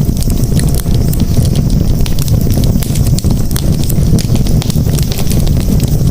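Campfire crackling, with many sharp pops and snaps over a steady low rumble.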